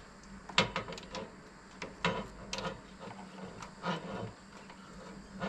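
A scatter of light clicks and knocks, the sharpest about half a second in, over a faint steady hum.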